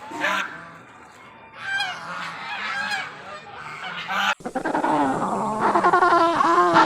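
Domestic geese honking: repeated, overlapping calls that change abruptly about four seconds in and then grow louder.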